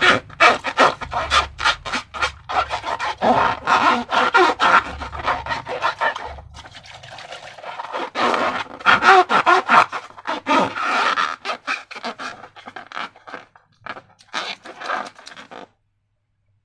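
Slime being squeezed and worked by hand with balloons, a dense run of wet crackles and squelches that cuts off about a second before the end.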